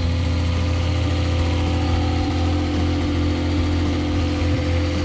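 Nissan L28 inline-six engine in a Datsun 280Z idling steadily at a fast idle, still far higher than it should be.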